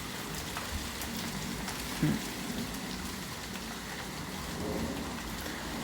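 Rain and hail falling, a steady hiss of rain with scattered sharp ticks of hailstones striking. A brief louder thump about two seconds in.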